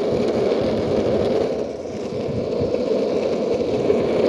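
Skateboard wheels rolling steadily over rough asphalt, a continuous grainy rumble with a slight dip just before the middle.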